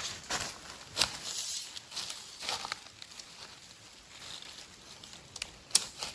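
Dry leaves and twigs crunching and rustling in irregular bursts, with a few sharp cracks. The loudest cracks come about a second in and near the end.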